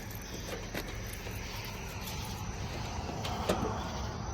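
Steady low rumble of distant vehicle noise, with a few faint clicks.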